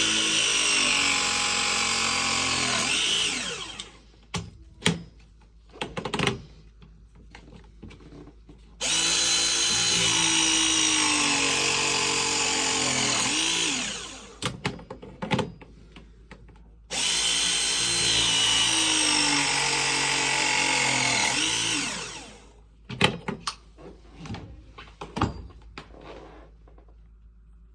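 Power drill run three times, about five seconds each, its whine dropping in pitch as it spins down each time, with clicks and knocks of handling in between.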